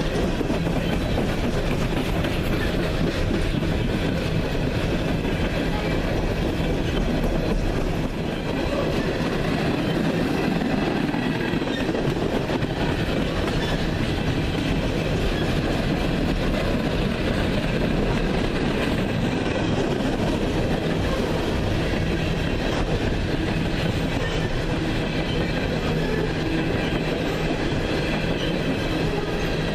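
Train cars rolling past at steady speed, a continuous rumble with wheel clatter on the rails.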